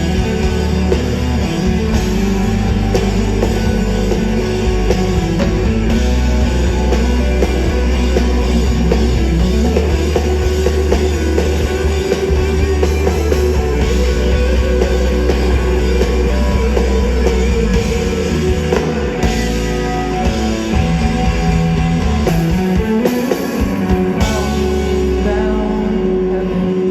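Rock band playing live at full volume: electric guitars, bass and drum kit in a passage with no clear sung words.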